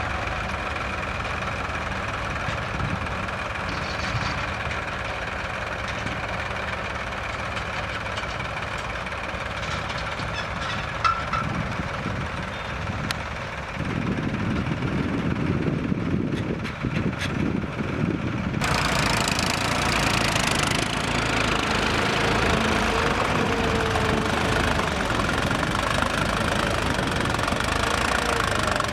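Heavy vehicle's diesel engine running steadily. About fourteen seconds in it grows heavier and louder, then a few seconds later it changes abruptly to a louder, brighter engine sound.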